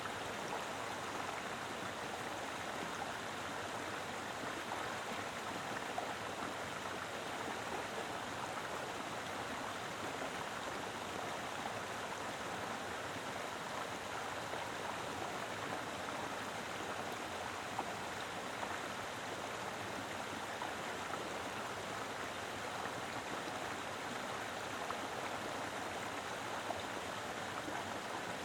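Mountain river flowing steadily over rocks, a constant rushing and babbling of water with the odd small splash.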